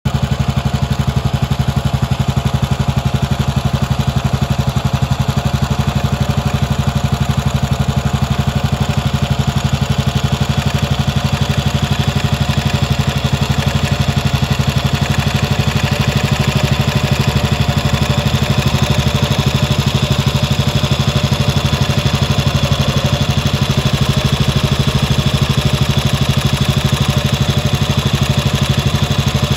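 Royal Enfield single-cylinder four-stroke engine idling steadily, with a close, even beat of firing pulses.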